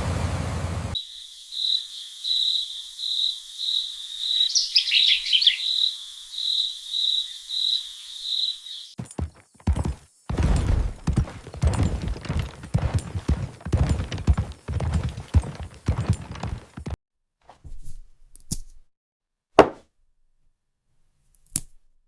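Insect chirping, a high tone pulsing about twice a second. It stops suddenly and gives way to a quick run of thuds and knocks, then a few scattered clicks.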